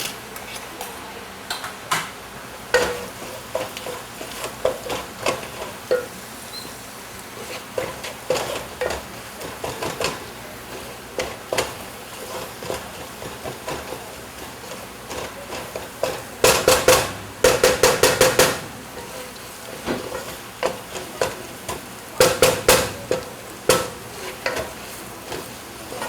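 A spoon stirring and scraping a spice-and-paste base frying in a cooking pot, clinking against the pot with irregular knocks, over a steady faint sizzle. There are two fast runs of clinks, one about two-thirds through and another a few seconds later.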